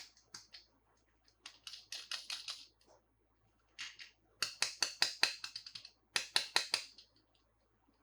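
Toy cars and plastic packaging being handled, giving rapid sharp clicks and crackles in several short bursts with brief pauses between them.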